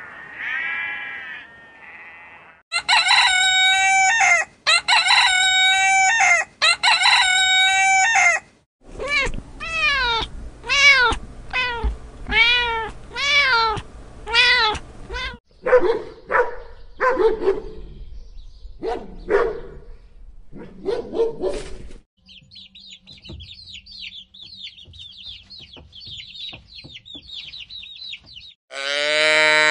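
A montage of animal calls. Goat bleating at the start, then three long, loud calls, then a cat meowing over and over in short rising-and-falling calls. Chicks peep in a high, thin chatter near the end, and a cow's moo begins just before the close.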